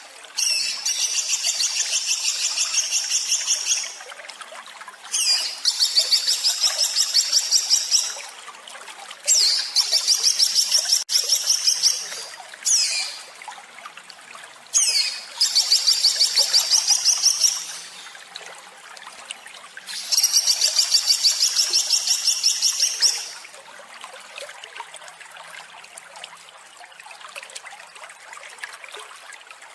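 A songbird singing harsh, rapid 'tembakan' shot phrases: high notes repeated about five times a second, in bursts of about three seconds separated by short pauses. Over the last six seconds only a soft, steady hiss remains.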